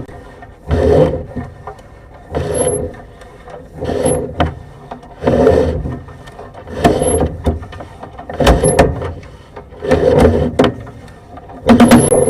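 Sewer camera push cable being fed into the drain line in repeated strokes, rubbing and scraping about every second and a half.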